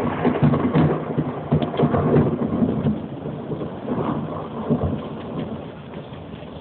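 Thunderstorm: a roll of thunder rumbles, loudest in the first few seconds and then dying away, over steady rain.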